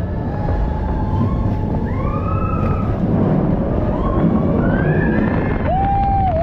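Roller coaster ride on Expedition Everest: a steady rumble with rushing wind, over which riders' voices cry out in high, rising and falling glides, with one held cry near the end.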